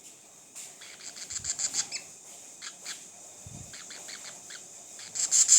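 A small bird chirping in quick runs of short, high notes, loudest near the end.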